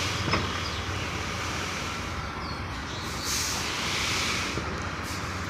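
Tipper truck's diesel engine running steadily, with an even rushing noise over it.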